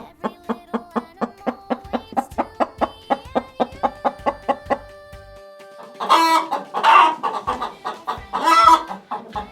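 A light, plucked tune with a steady beat, then two loud chicken calls over it in the second half.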